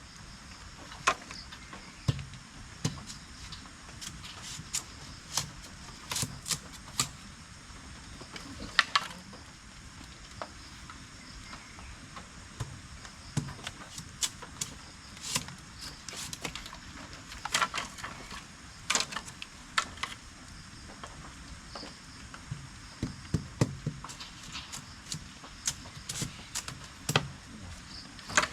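Steady high-pitched drone of night insects, with frequent sharp clicks, knocks and soft thuds scattered irregularly.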